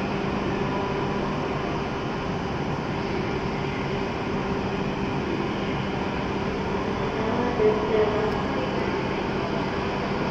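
A stationary W7 series Shinkansen's onboard equipment humming steadily at the platform: an even drone holding a few constant tones. A brief louder tone rises out of it about three-quarters of the way through.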